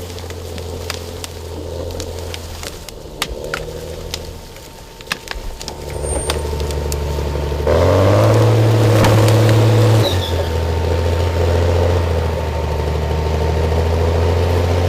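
Heavy machine's engine running steadily, with scattered sharp knocks in the first half; about eight seconds in it revs up louder for about two seconds, then drops back to a steady run.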